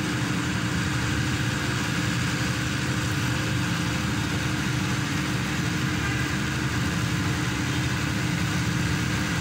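Hydraulic static pile driver's engine running steadily: a constant low drone with a steady hum.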